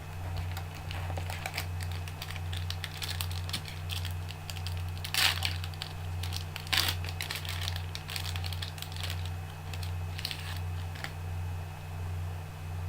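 Trading cards being handled and flipped through: soft clicks, slides and rustles, with sharper rustles about five and seven seconds in, over a steady low hum.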